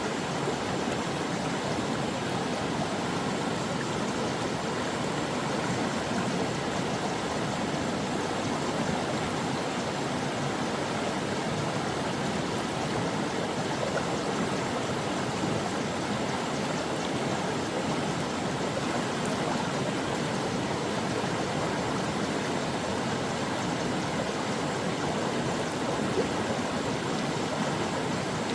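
A flowing stream: water rushing and babbling over rocks in a steady, unbroken wash.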